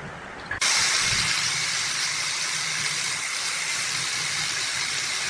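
A steady hiss that cuts in suddenly about half a second in and runs on evenly.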